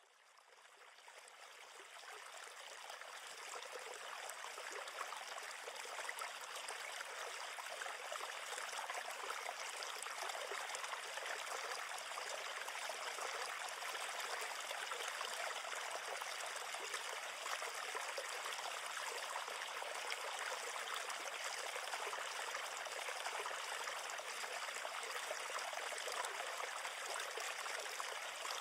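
River water flowing steadily, a continuous rushing hiss that fades in over the first few seconds and then holds even.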